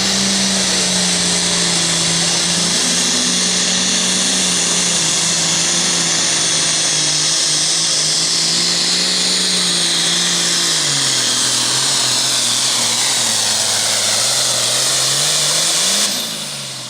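Super farm tractor's turbocharged diesel engine running at full throttle under load, with a loud, high turbo whine over the engine note. The engine pitch drops about eleven seconds in, and the sound falls off sharply near the end as the throttle comes off.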